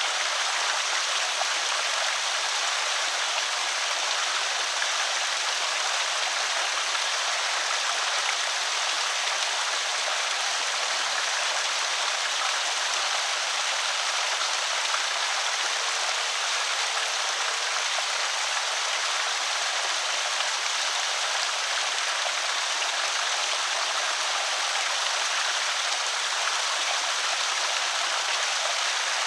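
Water spilling steadily over a small creek spillway: an even, unbroken rush of splashing and trickling water.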